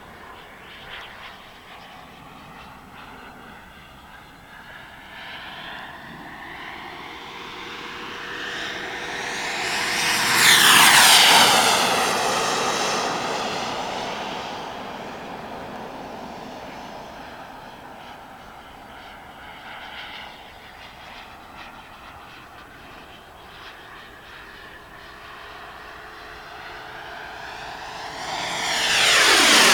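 Turbine-powered Jet-Italia Kayman 190 model jet flying. Its turbine whine swells into two fast passes, about ten seconds in and again at the end, each dropping sharply in pitch as it goes by, and fades between them.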